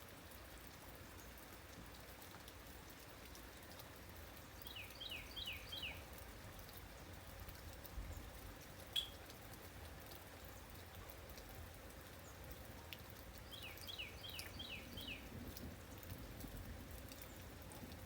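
Steady light rain in a nature soundscape, with a bird calling twice in a quick run of about five falling notes, about five seconds in and again near the end. A single sharp tick about nine seconds in.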